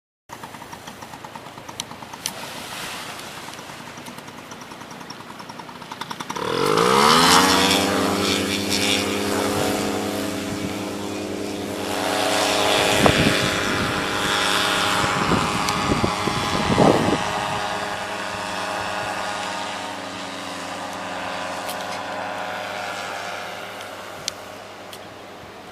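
Paramotor engine idling, then throttled up sharply about six seconds in to full takeoff power, running steadily at high revs and gradually fading toward the end.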